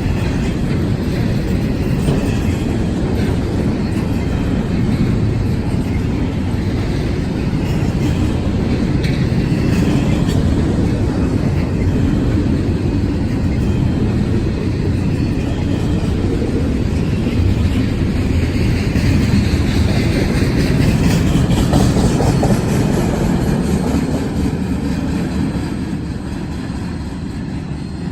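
Freight train rolling past close by: a steady rumble of wheels and cars on the rails with some clickety-clack, easing off near the end.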